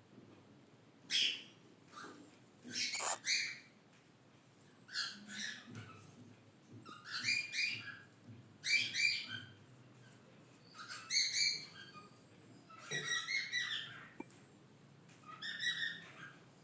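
Cockatiel chirping in about eight short bursts of quick, high notes, one burst every second or two.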